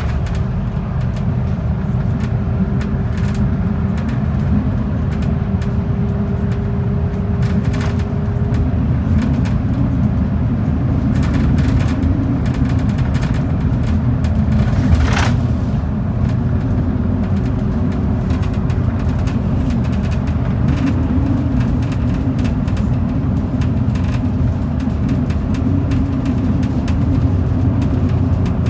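A transit bus under way heard from on board: a steady low rumble of engine and road noise, with a faint steady whine that fades about a third of the way in and returns later. Light rattles come and go, and there is one sharp click about halfway through.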